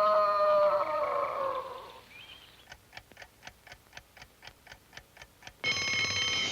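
Cartoon score fading out, then a clock ticking about four times a second, cut off by a loud alarm clock bell ringing for about a second near the end.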